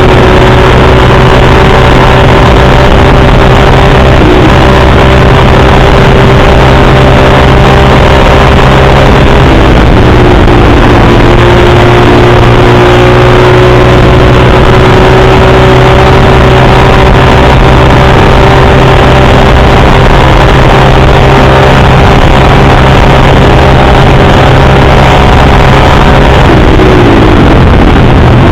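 Dirt bike engine running loud at a steady, slowly climbing pitch under way. Its pitch dips a little about a third of the way in, then drops steeply near the end as the throttle comes off, and picks straight back up.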